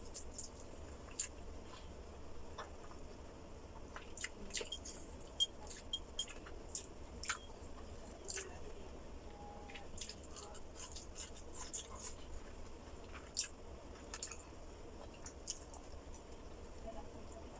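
Close-miked chewing and mouth sounds of a person eating: irregular wet smacks and small clicks, a few every second.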